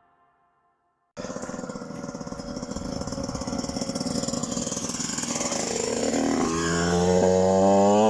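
Motorcycle engine running, cutting in suddenly about a second in, growing steadily louder and rising in pitch near the end as it revs up.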